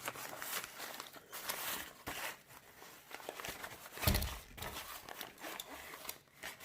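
Rustling and crinkling of a tripod's carry bag and its packing as it is opened and rummaged through by hand, with a single thump about four seconds in.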